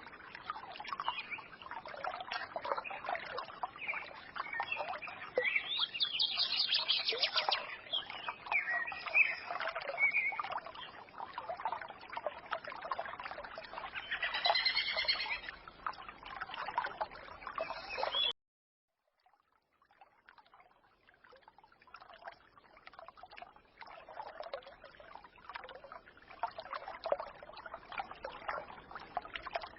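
A small forest stream trickling and babbling, with birds chirping over it, brightest twice in the first half. The sound cuts out abruptly about two-thirds of the way through, and after a second the trickle returns, quieter.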